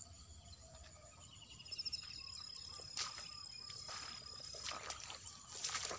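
Faint outdoor ambience with a bird's thin high call that opens with a short trill and then holds one pitch for about three seconds. Scattered soft rustles and clicks of grass and handling sound under it, the sharpest about three seconds in and near the end.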